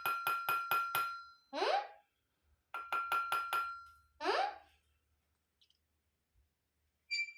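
A small metal bell jingling in rapid strokes, about seven a second, in two short runs. Each run is followed by a brief rising squeal.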